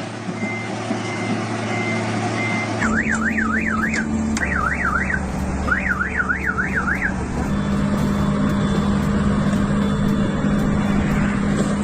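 A row of short, evenly spaced high electronic beeps, then a warbling alarm tone sweeping rapidly up and down, about four sweeps a second, in three bursts over a steadily running engine.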